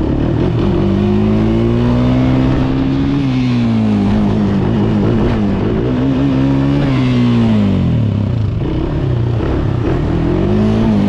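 Dirt bike engine revving, its pitch rising and falling a few times as the throttle is worked.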